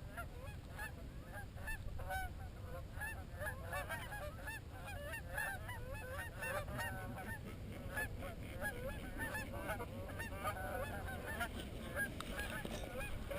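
A flock of geese honking, many short calls overlapping continuously and fairly faint.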